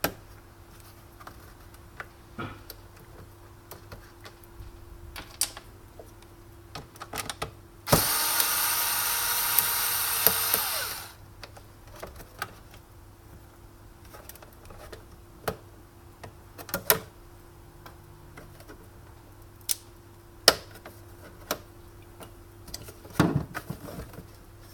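Power drill running in one burst of about three seconds, driving out screws from the espresso machine's casing. Around it come scattered small clicks and knocks of parts and screws being handled.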